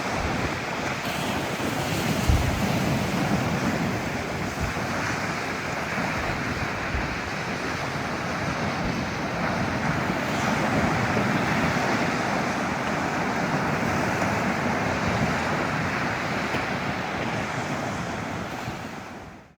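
Ocean surf breaking and washing on a beach, with wind buffeting the microphone in a few low thumps. The sound fades out just before the end.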